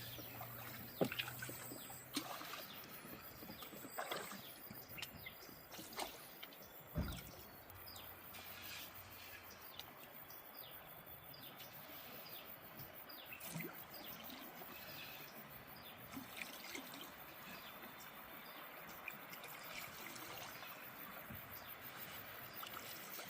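Faint river water trickling and splashing around a bamboo raft, with scattered small splashes and knocks, a few sharper ones in the first seven seconds.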